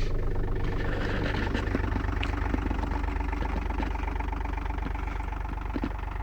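VW Lupo 3L's 1.2 TDI three-cylinder diesel idling steadily about a minute after a cold start, getting gradually a little quieter.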